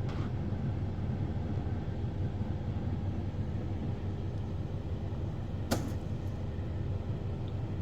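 Car running: a steady low rumble, with a single sharp click about six seconds in.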